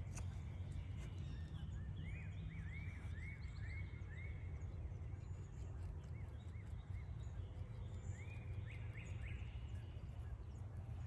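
A songbird singing phrases of clear, rising whistled notes, about six in a row, then a few more near the end, over a steady low rumble of outdoor background noise.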